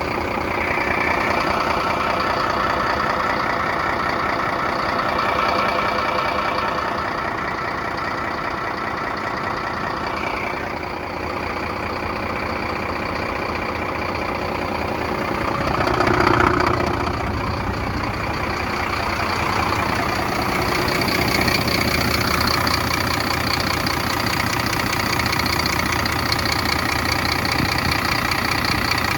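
Dump truck's diesel engine idling steadily, with a brief swell in loudness about halfway through.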